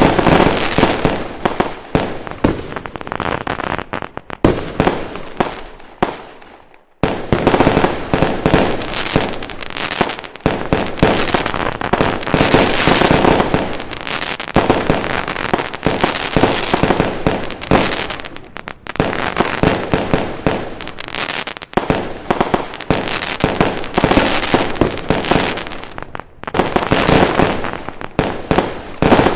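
Fireworks going off in a dense, continuous barrage of bangs and crackles. It fades to a brief lull about six seconds in, then starts up again abruptly.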